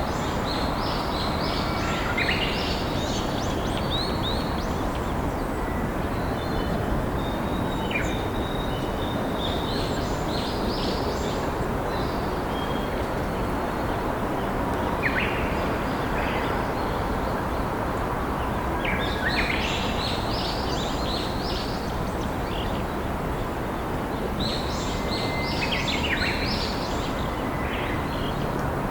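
Steady rush of a flowing river, with small wild birds singing and chirping over it in several short bouts of high notes.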